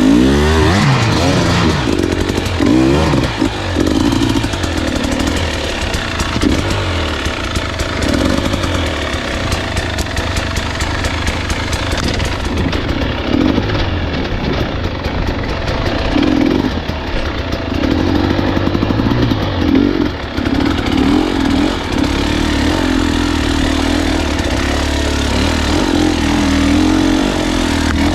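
Enduro dirt bike engine running under load on a trail, its pitch rising and falling with the throttle. It revs up and down sharply at first, then runs steadier near the end.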